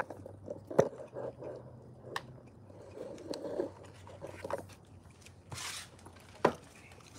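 Close eating sounds: someone chewing a mouthful of food, with a few sharp clicks of a fork against a bowl, the loudest about a second in and near the end, and a short breathy hiss just before the last click.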